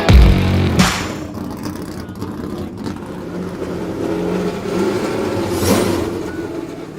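Car engine running and being revved: loudest in the first second, another rev about six seconds in, then fading out.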